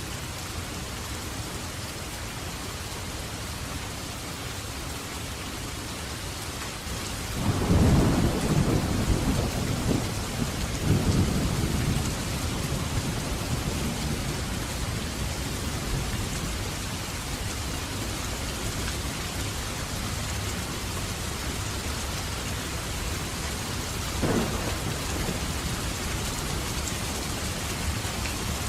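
Steady heavy rain with thunder: a loud rolling rumble breaks about a quarter of the way in, swells again a few seconds later and fades slowly, and a short sharp clap of thunder comes near the end.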